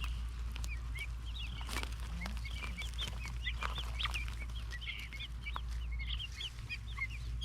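A flock of baby guinea fowl (keets) peeping continuously: many short, high chirps overlapping, several a second.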